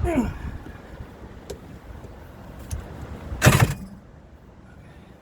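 Yamaha LS2000 jet boat engine winding down with a quickly falling whine as cranking stops. About three and a half seconds in, a brief loud burst, the loudest sound.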